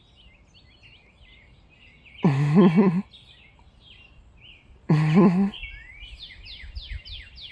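Small songbirds chirping and twittering, with a quick run of about six falling whistled notes near the end. Two short, louder, low-pitched voice sounds, about two and five seconds in, stand out above the birds.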